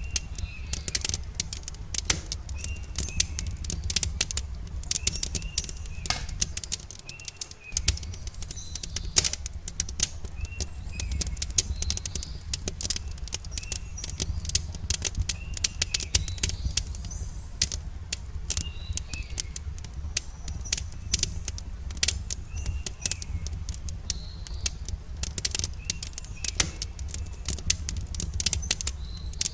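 Campfire crackling with frequent sharp pops over a low steady rumble, while a bird repeats a short chirping call every second or so.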